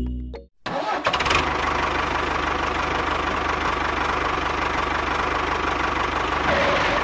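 A small motor starts about half a second in and runs steadily with a fast, even low pulsing, then cuts off near the end.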